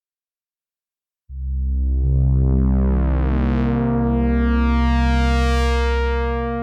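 Silence for just over a second, then a Cherry Audio P10 software synthesizer brass preset plays a sustained low chord. Its tone grows steadily brighter as the filter opens, and the chord holds to the end.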